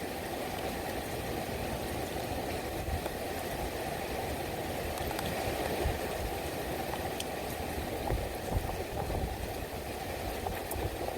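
Steady rushing of heavy rain, with uneven low rumbling from wind on the microphone and a few faint drop clicks.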